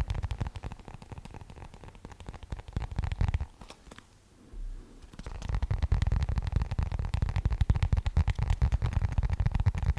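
An object being rubbed and scratched close to the microphone as an ASMR trigger: dense, rapid crackling with a heavy low rumble. It pauses for about a second and a half near the middle, then comes back louder.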